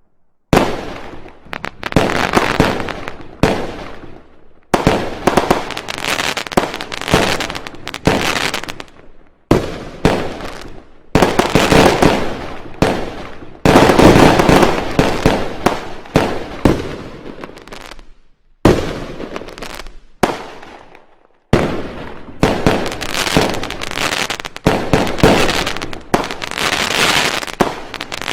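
Fireworks and firecrackers going off: rapid strings of sharp bangs and crackles in loud bursts of a few seconds each, separated by short pauses, some breaking off abruptly.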